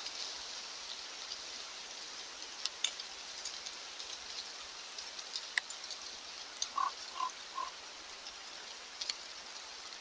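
Steady hiss of light rain with scattered sharp drop ticks. About two-thirds of the way through, an animal gives three short, low calls, evenly spaced less than half a second apart.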